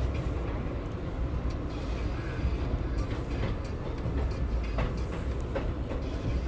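Indian Railways passenger coach running along the line, a steady low rumble of wheels on rail with scattered short clicks and knocks.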